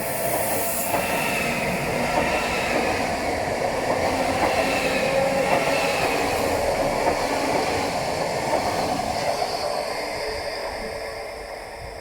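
Deutsche Bahn ICE train pulling out of the station: a steady rush of running and wheel noise with wavering tones through it, fading over the last few seconds as the train moves away.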